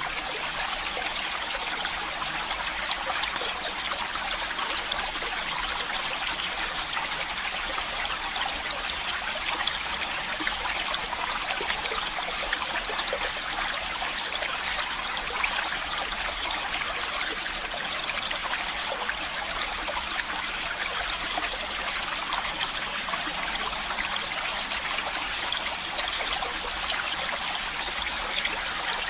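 A stream of running water trickling and splashing steadily, with a constant rush full of tiny splashes and no pauses.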